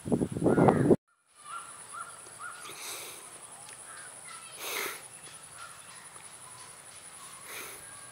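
Crows cawing loudly in harsh, rapid calls, cut off sharply about a second in. After that comes quieter outdoor ambience: a few faint short calls, three softer harsh calls spread through the rest, and a steady high-pitched whine.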